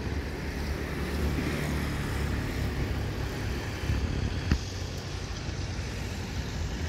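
Passenger train hauled by an Alstom diesel-electric locomotive moving away, a steady low rumble, with a brief sharp click about four and a half seconds in.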